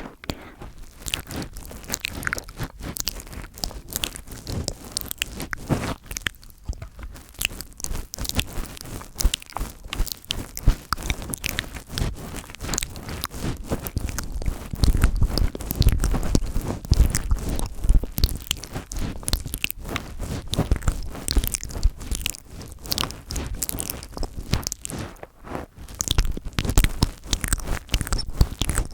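Fingers touching, tapping and rubbing directly on a microphone: a dense run of close crackling scratches and soft low thumps, easing off briefly twice.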